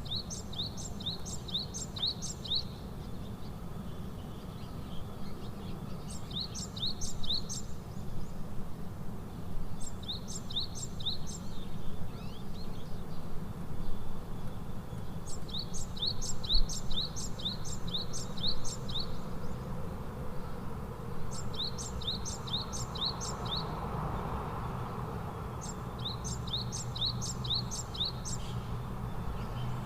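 A songbird singing repeated short phrases of quick, high chirps, a new phrase every four to six seconds, over a steady low background rumble.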